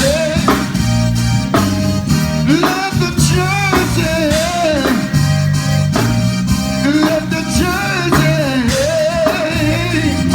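Gospel singing with a band: a voice sliding between notes over held bass notes and a steady drum beat.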